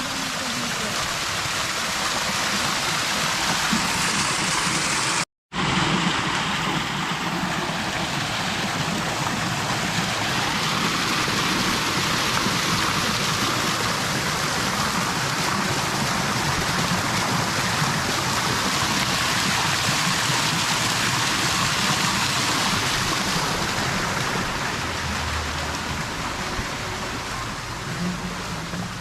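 Steady, loud rushing noise with no distinct events, broken by a split-second dropout about five seconds in.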